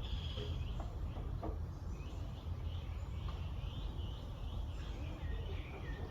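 Several small birds chirping and trilling in short, overlapping calls, over a steady low rumble.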